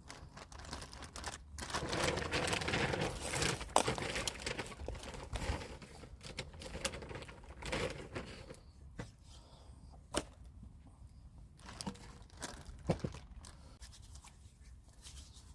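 Rustling and crinkling of hands handling things during chicken preparation, loudest through the first half, with several sharp taps and knocks later on.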